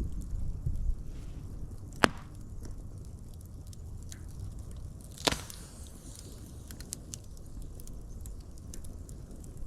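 Wood fire crackling, with many small crackles and two loud sharp pops, about two seconds in and about five seconds in. A low rumble fades out during the first second.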